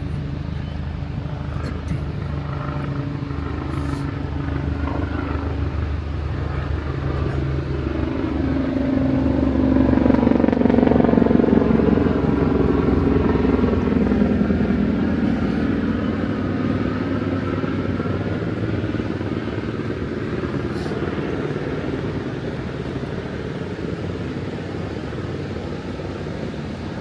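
Motor vehicle passing along the road, its engine growing louder to a peak about ten seconds in and then dropping in pitch as it moves away, over a steady hum of traffic.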